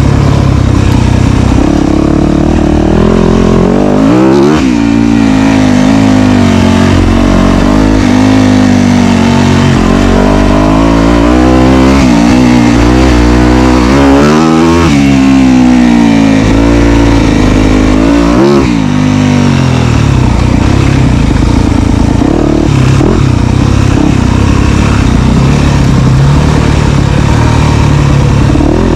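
Dirt bike engine running hard on a trail, its pitch climbing and falling as the throttle is worked, with a few sudden drops where the revs are chopped before climbing again.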